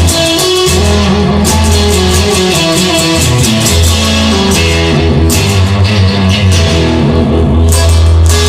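Rock band playing an instrumental passage: electric guitar and bass guitar over a steady drum beat.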